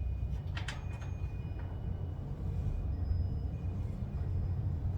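Steady low rumble with a few light clicks in the first second and a half.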